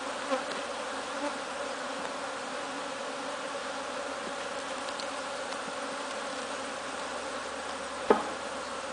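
Honey bees buzzing steadily from an opened hive colony, with one sharp knock about eight seconds in.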